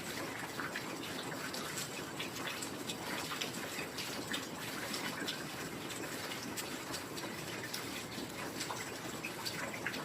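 Steady heavy rain, a constant hiss with many scattered drops ticking and dripping close by.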